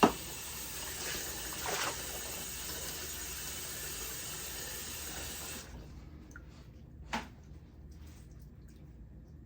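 Tap water running steadily into a sink as wigs are rinsed, shut off suddenly a little over halfway through. A sharp knock at the very start is the loudest sound, with a smaller one about a second after the water stops.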